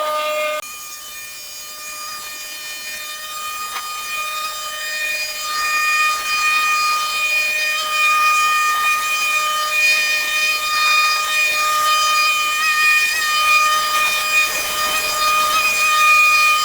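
Power tool running at a steady high speed, a loud whine that holds its pitch and then cuts off suddenly near the end.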